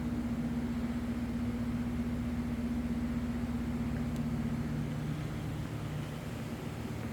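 Steady low mechanical hum with droning tones over an even rumble; the higher tone fades out about five seconds in.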